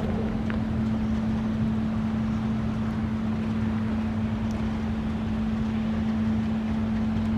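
Steady mechanical drone: a constant low hum over an even rumble, unchanging throughout.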